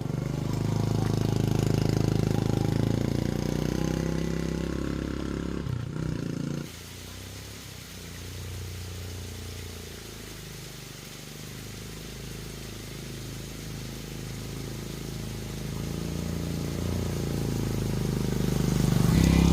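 An engine running, its pitch shifting in steps. It drops off suddenly about six or seven seconds in, runs quieter, and builds again near the end.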